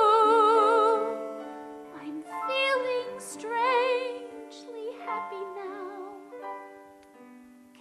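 A woman singing a long held note with wide vibrato over sustained keyboard accompaniment, then a few softer sung notes as the music fades away.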